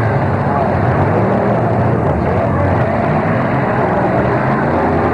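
Demolition derby car engines running at high revs as the cars push against each other, a steady loud din with no single sharp crash.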